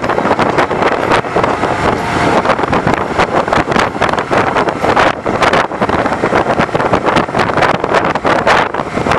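Wind rushing and buffeting on the microphone of a bicycle moving fast downhill: a loud, steady rush of noise with rapid gusty flutter throughout.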